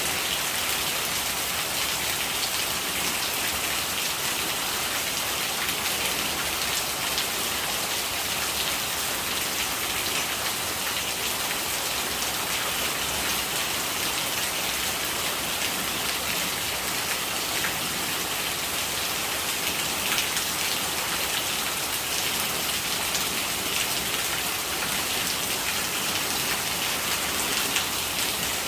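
Rain falling and rainwater gurgling as it runs off: a steady, even hiss with scattered small drop ticks.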